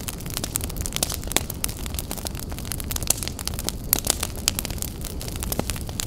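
Fire crackling: a steady low rumble of flames with many irregular sharp pops and snaps.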